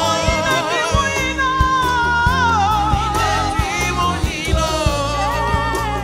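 Live gospel music: a singer holds long, wavering vibrato notes that slide between pitches, over a band with bass and a steady drum beat.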